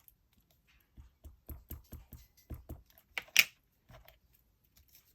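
A craft stamp being inked and stamped: a quick run of about six soft, dull taps as it is dabbed on the ink pad, then two sharp knocks, the loudest sounds, as it is pressed down onto the paper, and one last tap.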